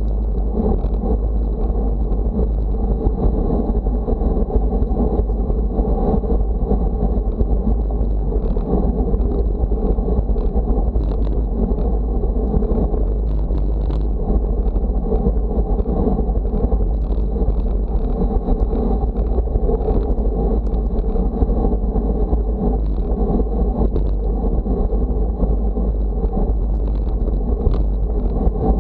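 Steady rumble of wind buffeting the microphone, mixed with road noise from moving along, unbroken throughout, with a faint steady high whine above it.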